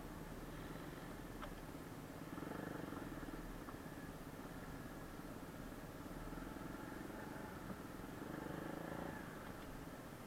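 Kayo pit bike engine running at low revs, swelling louder twice: once about two and a half seconds in and again near the end.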